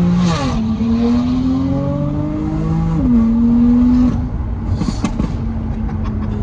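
BMW M3 F80's S55 twin-turbo straight-six with an equal-length exhaust accelerating hard: the engine note climbs and drops sharply at two upshifts. About four seconds in the driver lifts off, and the exhaust gives a few pops and crackles on the overrun while the engine settles to a steady note.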